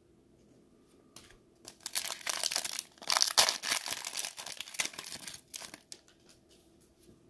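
Plastic wrapper of a trading-card pack being torn open and crinkled in the hands, a dense crackling rustle that starts about two seconds in, is loudest in the middle and dies away to a few small crinkles near the end.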